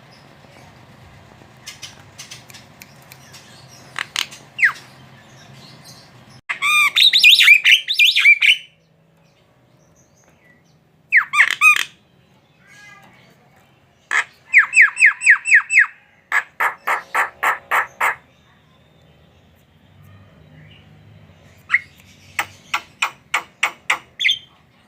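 Javan myna calling in separate bursts: harsh squawks and a sharp sweeping note, then rapid runs of repeated notes at about four a second, with short pauses between phrases.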